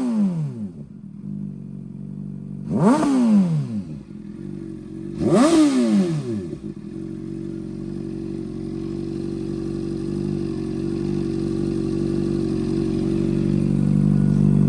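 Honda CBR600RR inline-four sport-bike engine through a Toce aftermarket exhaust, idling and blipped twice: two quick revs about three seconds and five and a half seconds in, each rising sharply and falling back to idle. After that it idles steadily, slowly getting louder.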